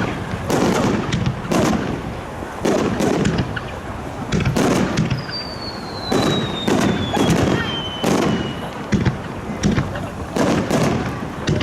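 Aerial fireworks bursting in quick succession, each bang followed by a low echoing rumble. About five seconds in, a long whistle falls slowly in pitch over three seconds or so while the bangs continue.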